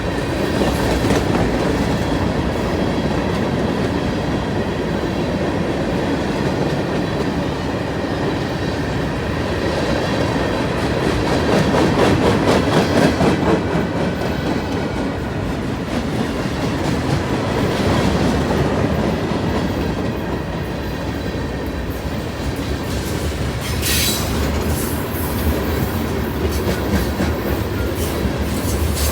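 Railroad cars rolling steadily past, wheels clicking over rail joints in a continuous clickety-clack.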